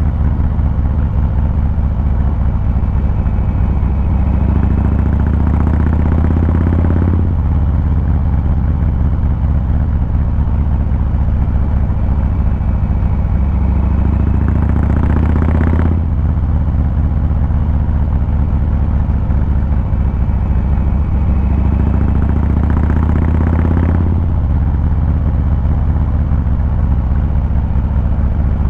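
A 2023 Harley-Davidson Fat Boy 114's Milwaukee-Eight V-twin running under way, with a loud low exhaust rumble. Three times the note rises and then drops suddenly, about 7, 16 and 24 seconds in.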